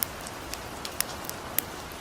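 Light rain falling in a steady hiss, mixed with a crackling campfire: scattered sharp pops, the loudest about a second in and again a little after.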